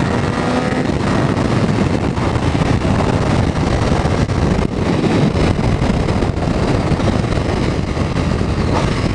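Wind buffeting the microphone while a Triumph Street Triple's three-cylinder engine runs underneath as the motorcycle is ridden along.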